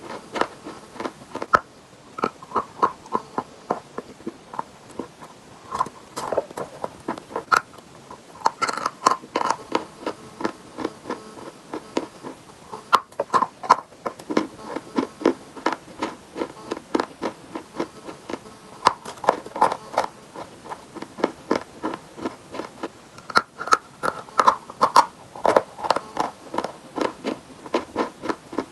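Close-up chewing and crunching of chalk with chalk paste: a fast, irregular run of sharp crunches and clicks.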